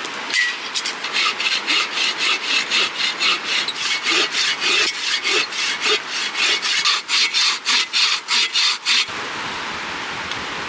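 Hand saw cutting through a log in quick, even back-and-forth strokes, about three or four a second, stopping near the end.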